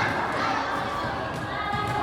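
Crowd at a volleyball match shouting and cheering, many voices overlapping.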